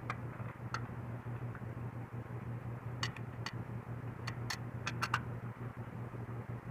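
Light clicks and taps of plastic parts of a chronograph being handled and fitted back together, a scattered handful with a quick cluster between about three and five seconds in, over a steady low hum.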